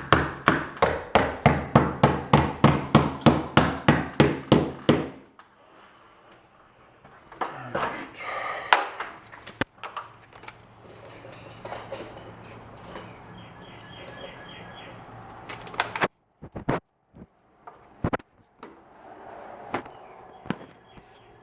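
A hammer striking in a fast, even run of about four blows a second for around five seconds, then stopping. Scattered lighter knocks and clicks follow.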